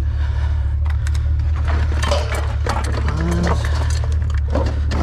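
Loose pennies and screws clinking and rattling against metal as they are picked out by hand, a rapid scatter of small clicks over a steady low hum.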